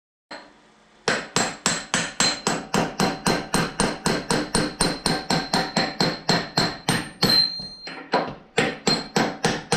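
Repeated hammer blows on steel, about three or four a second with a metallic ring, driving out the mounting pin of a Kubota KX91-2 excavator's hydraulic ram. The blows pause briefly about three-quarters of the way through, then resume.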